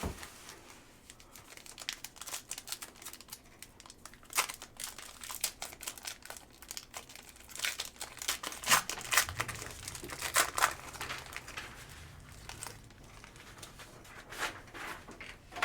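Trading-card pack wrapper being torn open and crinkled by hand, a run of irregular crackles and rustles as the cards are pulled out.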